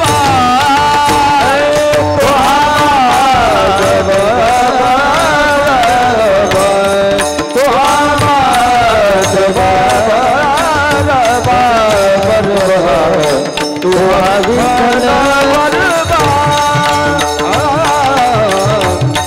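Devotional kirtan music: a long, ornamented melodic line, sung or played, gliding between held notes over mridang and tabla drumming.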